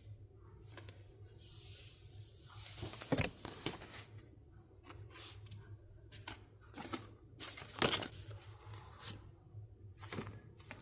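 Packaging and merchandise being handled: rustling and crinkling with scattered clicks and taps, and two sharper knocks, about three seconds in and near eight seconds.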